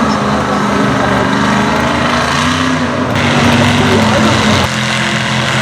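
Mega truck's engine running hard in a mud bog run, its pitch rising and falling with the throttle, with an abrupt change in the sound about three-quarters of the way through.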